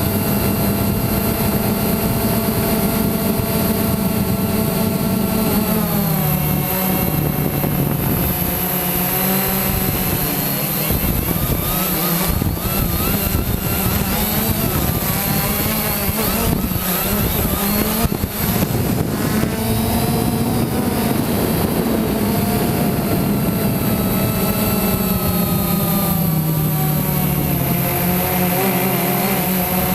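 Quanum Nova quadcopter's brushless motors and propellers whining in flight. The pitch drops, wavers up and down through the middle and rises again, following the throttle.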